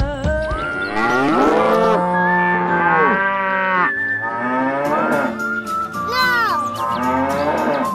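Cattle mooing: one long drawn-out moo, then several shorter moos that fall in pitch toward the end.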